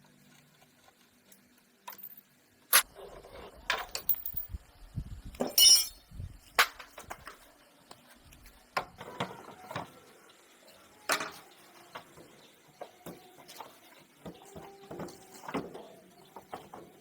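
Metal parts and hand tools knocking and clinking during motorcycle repair work: a string of irregular sharp clanks, a few briefly ringing.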